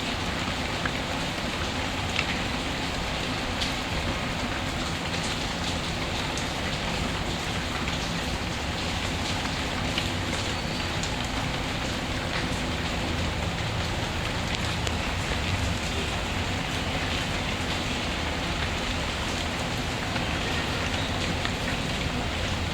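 Steady rain falling, with scattered faint clicks and crackles of a fireplace mixed in underneath.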